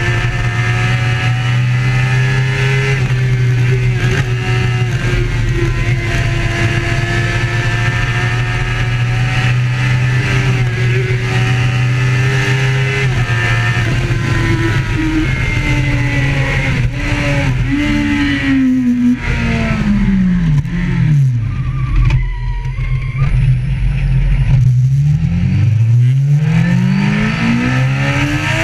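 Motorbike engine running hard at speed, with a steady low drone underneath. About two-thirds of the way through the engine note drops steeply as it slows down, then climbs again near the end as it accelerates.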